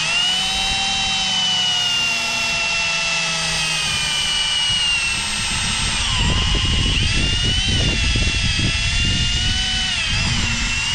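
Electric power drill running under load for a long stretch, its motor whine sagging and rising in pitch as the load changes, with a rougher grinding rattle joining in about halfway through.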